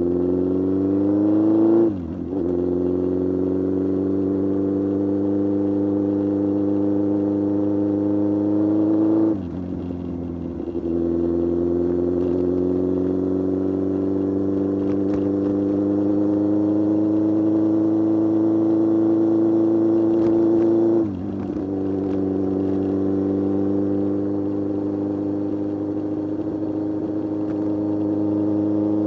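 Kawasaki Z1000 inline-four motorcycle engine under way, the engine note climbing slowly as the bike accelerates. It drops sharply with a gear change about two seconds in, again about nine seconds in and about twenty-one seconds in.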